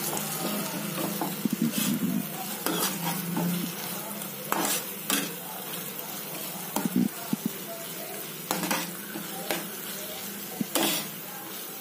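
Chopped tomatoes sizzling steadily in hot oil in a pan as they fry down to softness, while a metal spoon stirs them, clinking and scraping against the pan at irregular moments.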